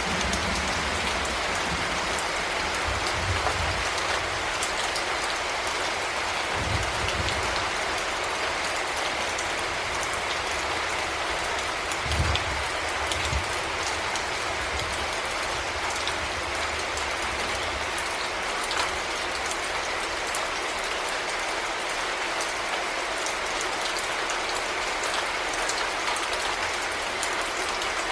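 Heavy rain falling steadily: an even hiss full of small drop ticks, with a few brief low thuds about 6 and 12 seconds in.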